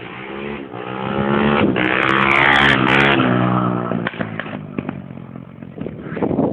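150cc pit bike engine running hard, growing louder to a peak about two to three seconds in, then dropping slightly in pitch and fading.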